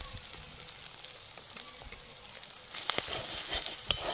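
Onion and spice masala frying on low heat in a metal wok, a soft sizzle with faint crackles. About three seconds in, a metal spatula starts stirring it, scraping and knocking against the pan twice as the ground coriander and cumin are fried into the paste.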